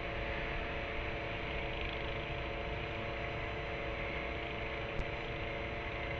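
Steady mechanical hum with a faint hiss and a few constant tones, and one faint click about five seconds in.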